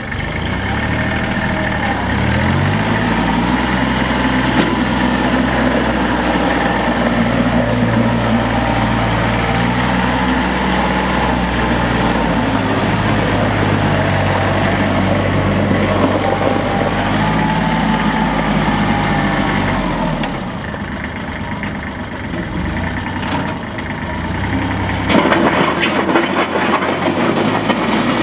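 Kubota L3430 tractor's diesel engine running, its pitch rising a couple of seconds in and shifting again partway through. It drops quieter near twenty seconds, then turns louder and noisier for the last few seconds.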